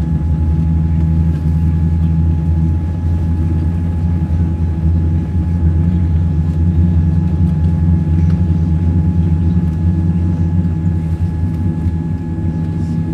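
Steady low drone of a Boeing 787's cabin, with two faint steady whining tones above it.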